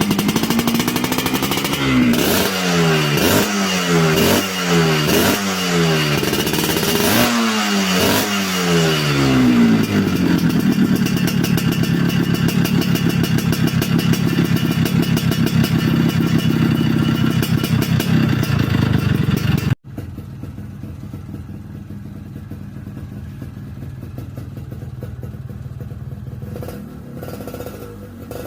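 Yamaha RX-King two-stroke single-cylinder engine running through a stock-style baffled exhaust, revved in a string of quick throttle blips that each fall back, then held at a steady fast idle. About two-thirds through it cuts off abruptly and a quieter, steady idle follows.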